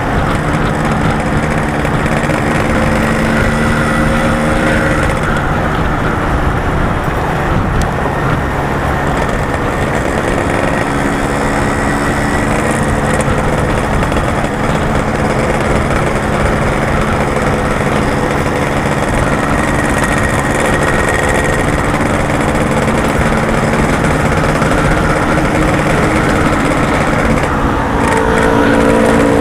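Yamaha RX-King's two-stroke single-cylinder engine running under way, its pitch shifting up and down with throttle and gear changes over steady road noise.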